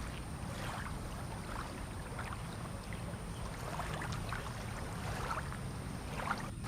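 Water lapping and splashing in small irregular slaps against moored boats and the quay, over a steady low rumble.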